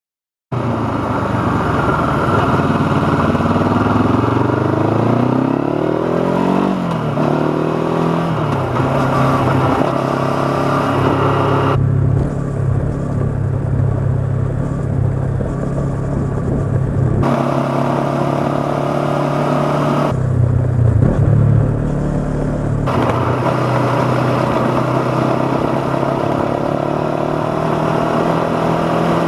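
Honda CB500X's parallel-twin engine with an aftermarket Staintune exhaust, under way: it rises in pitch through a few gear changes in the first several seconds, then holds a steady cruising note.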